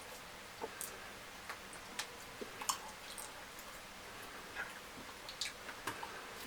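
Close-up eating sounds of fried fish curry with fufu: irregular wet chewing and mouth clicks, a few sharper smacks, over a steady hiss.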